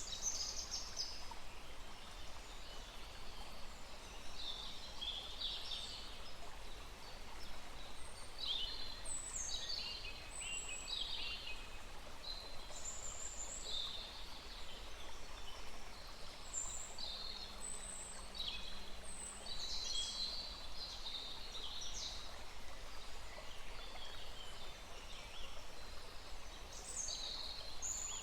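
Several small birds singing and calling, short high chirps and trills coming every second or two, over the steady rush of a small forest stream.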